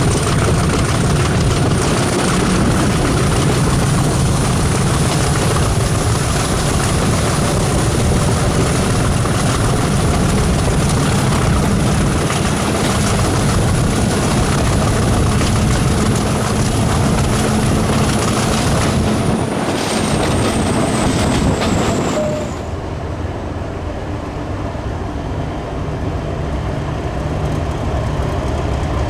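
An English Electric diesel locomotive running at close range, with a heavy engine rumble and a thin, steady high whine. About 19 seconds in, the whine slides down in pitch. A few seconds later the sound drops suddenly to a quieter engine rumble, which builds slightly again near the end.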